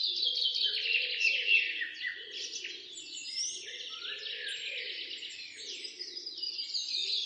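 Many small birds chirping and singing at once, with dense overlapping high chirps and trills. A fainter low wavering sound runs underneath.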